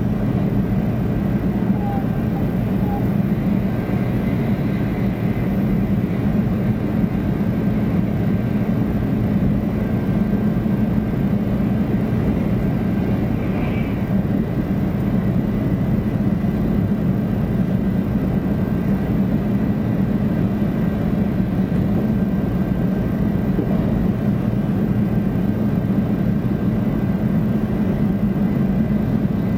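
Steady running noise heard inside a 500 Series Shinkansen carriage: a dense, even rumble with two faint steady high tones above it.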